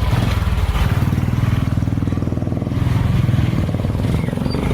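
A motor vehicle's engine running steadily at low revs, close by.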